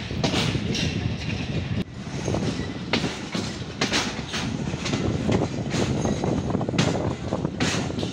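Khyber Mail passenger train running, heard from beside the open side of a coach: a steady rumble with wheels clacking sharply and irregularly over the track joints.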